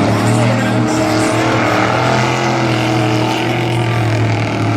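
Dirt-track race trucks' engines running hard on track, several engines overlapping in a steady, loud drone.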